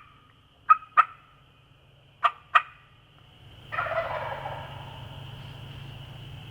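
Wild turkeys: five short, sharp clucks, mostly in pairs, then a tom gobbling about two-thirds of the way in, a rattling call that fades out over a second. The clucks are louder than the gobble.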